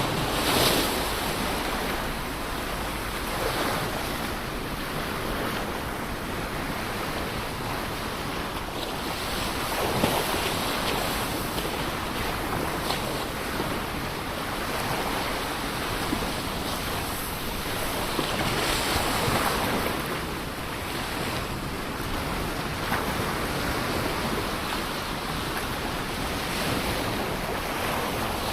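Ocean waves breaking on a shore: a steady wash of surf that swells every few seconds as waves come in, with some wind on the microphone.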